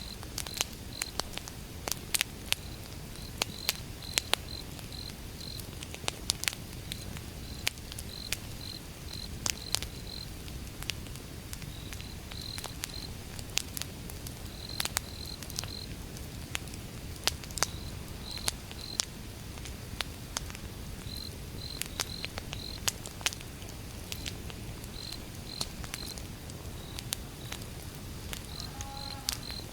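Wood fire burning, crackling with sharp, irregular pops over a low rumble. Crickets chirp in short high groups of two to four throughout.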